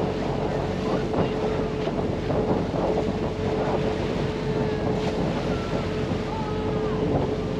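Tour boat's engine running with a steady drone, with wind buffeting the microphone and water rushing past the hull.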